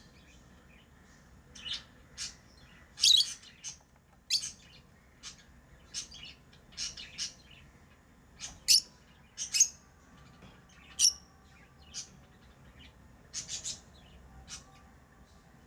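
Pet lovebirds chirping: short, sharp, high-pitched chirps at an irregular pace, one or two a second, some in quick pairs.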